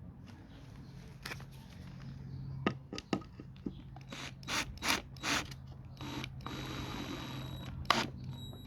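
Scrap wood pieces and tools being handled during assembly: a run of knocks and clacks, then a steady mechanical whirr lasting about a second and a half, and one sharp knock near the end.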